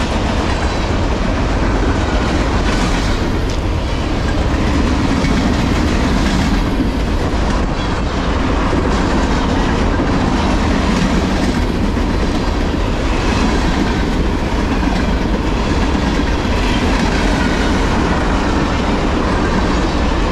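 Freight train of high-sided trash gondola cars rolling past, with a steady, loud noise of steel wheels running on the rails.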